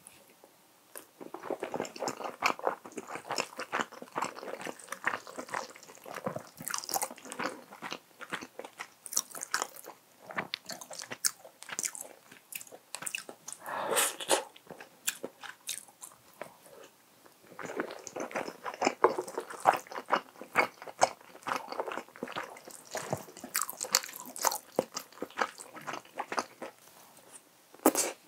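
Person chewing food close to the microphone: wet, clicky mouth sounds with crunchy bites. The chewing starts about a second in, pauses for a couple of seconds past the middle, then carries on.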